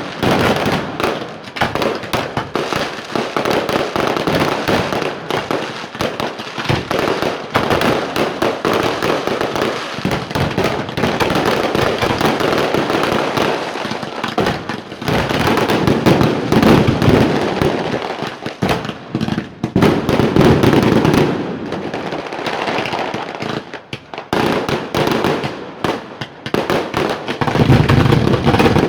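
A fireworks display going off continuously: dense volleys of crackling and popping shells with heavier booming bursts, loudest in the second half.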